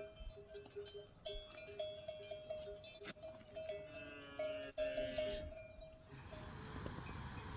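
Goats or sheep bleating, with short repeated ringing tones like livestock bells. About six seconds in this gives way to a steady hiss.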